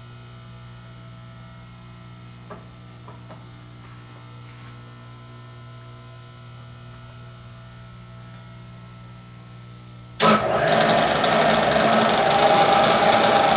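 Steady electrical hum, then about ten seconds in a milling machine's spindle motor switches on abruptly and keeps running loudly with a whirring tone.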